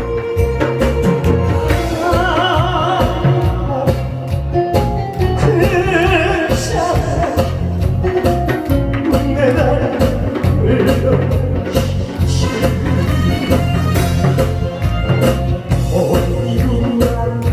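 Amplified live trot singing: a voice with heavy vibrato over a backing track with a steady drum beat.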